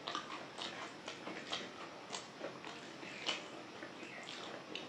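Close-up eating sounds of dal and rice: wet, open-mouthed chewing and lip smacks, a few irregular clicks a second, with fingers squishing the food.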